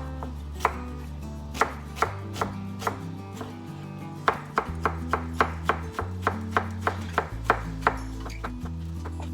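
Knife chopping on a cutting board: irregular sharp knocks, about two or three a second, with short pauses between runs of strokes.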